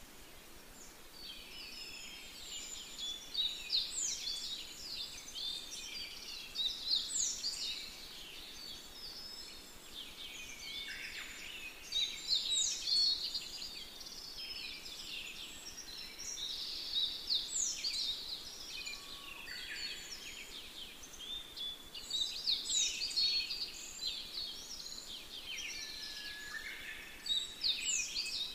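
Birds chirping and singing, several calls overlapping, with one high phrase that opens with a quick falling whistle recurring every few seconds.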